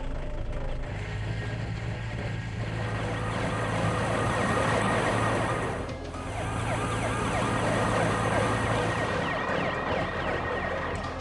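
Cartoon soundtrack: background music under a dense layer of quick, repeated up-and-down pitch glides, siren-like, which swell twice and dip briefly in between.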